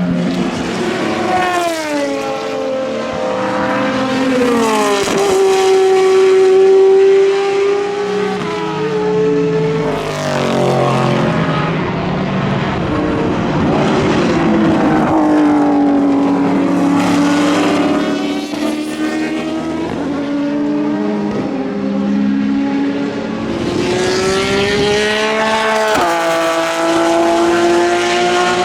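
Endurance racing cars running at speed one after another, their engines at high revs, with the pitch falling and rising as they brake, change gear and accelerate past, several cars overlapping at times.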